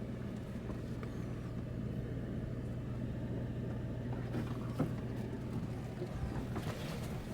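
Ford F-150 pickup creeping slowly over a rough off-road trail, its engine running at a steady low speed, with a single sharp knock about five seconds in.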